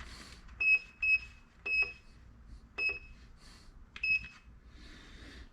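A run of short, high electronic beeps, five in about four seconds, some in quick pairs, over a faint low shop hum.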